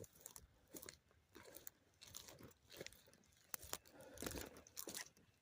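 Faint, irregular crunching and rustling of footsteps through field grass and leaves, a few steps closer together about four seconds in.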